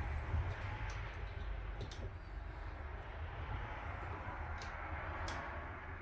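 A wrench clicking lightly against the metal parts of an outboard's lower unit, a handful of separate short clicks, over a steady low background rumble.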